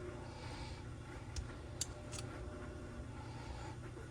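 Steady low room hum with a few faint, light clicks, like small parts being handled on a bench.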